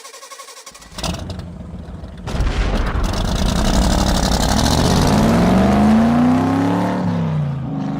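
Car engine running and revving, getting louder about two seconds in, its pitch rising and falling.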